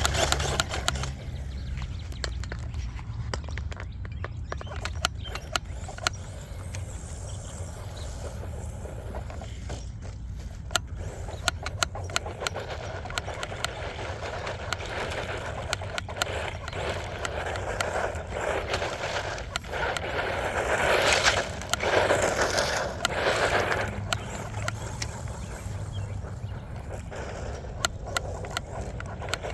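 1:10 scale Enoze 9201E short course truck with a 3650 3100kV brushless motor being driven over dirt, its tyres crunching and rattling over loose ground with many sharp clicks of thrown grit. It swells loudest twice around 21 to 23 seconds in as it runs close by.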